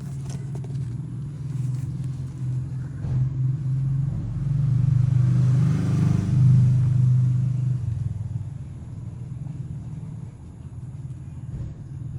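An engine running with a steady low hum that swells louder for a few seconds in the middle and then eases back.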